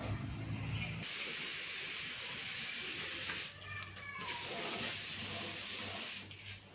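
Two long bursts of pressurised spray hissing, each about two and a half seconds, with a short break between them. A steady low hum runs in the first second.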